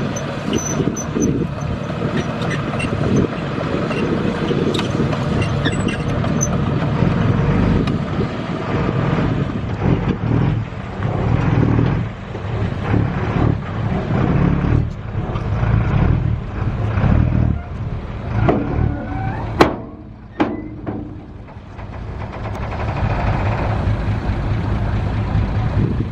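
Heavy diesel engine of construction machinery or a truck running under varying load, with two sharp metallic knocks a little over two-thirds of the way through.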